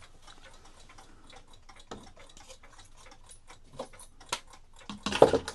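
Cuckoo clock movement ticking steadily, a quick even run of small clicks. About five seconds in, a louder clatter of the clock being handled.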